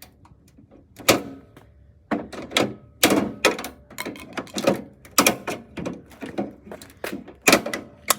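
Repeated knocks and clattering from a dehumidifier's casing and parts being struck and broken apart. One knock about a second in, then a busy run of knocks about twice a second.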